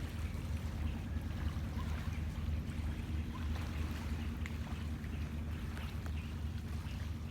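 Sea waves washing on the shore over a steady low rumble, with a few faint bird chirps.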